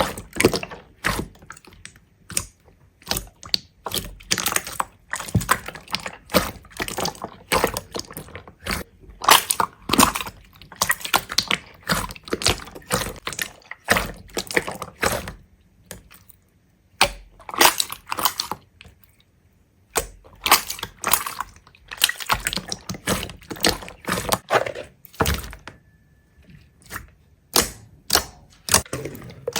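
Many sharp clicks, taps and knocks in quick irregular clusters, with a few short pauses.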